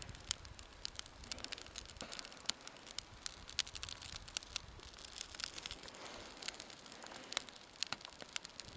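Small wood fire of thin broken sticks and birch bark catching, crackling with many irregular sharp pops.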